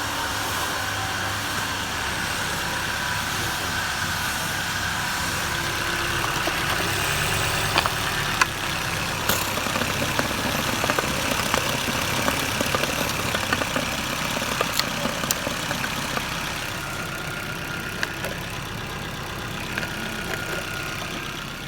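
Opel Astra G's Z16XEP 1.6-litre four-cylinder petrol engine running steadily at idle, with a few sharp clicks around the middle.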